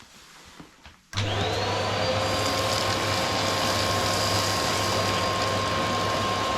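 Vacuum cleaner switched on about a second in: its motor whine rises quickly, then runs steadily.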